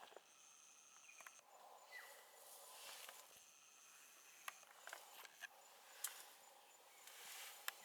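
Quiet bush ambience: a faint high insect trill comes and goes twice, with scattered soft clicks.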